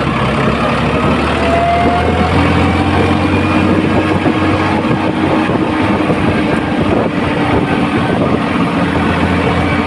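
Farmtrac tractor's diesel engine running steadily as the tractor drives along, an even low drone with no change in pace.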